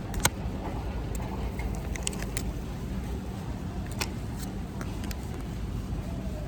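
Steady low rumble of store background noise, with a few light clicks and taps of small packages being handled.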